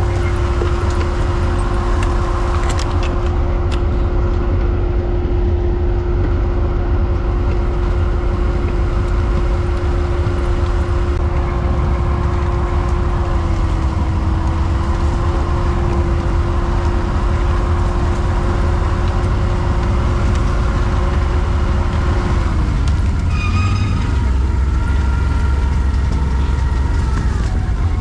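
Quad bike engine running at a steady pitch while riding, under heavy low wind rumble on the microphone. The engine note drops away about 22 seconds in, and a higher, steady whine follows.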